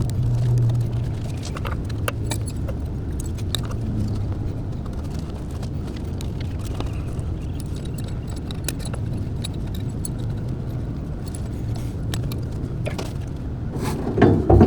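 Light metallic clinks and taps of hand tools and parts being handled, scattered over a steady low rumble. The clinks get louder and busier near the end.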